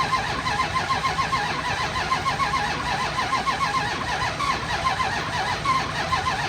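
A 2002 Dodge Ram 3500's 5.9-litre gas V8 being cranked by its starter with an even, repeating rhythm, turning over without firing. It will not start: it appears to have no spark.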